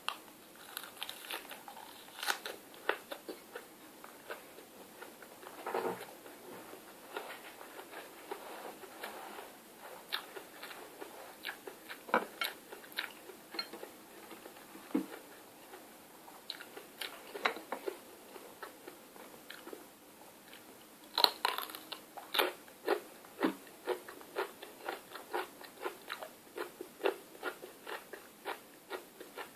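A person chewing and biting crunchy food close to the microphone: a long run of crisp, irregular crunches, coming thickest about two-thirds of the way through.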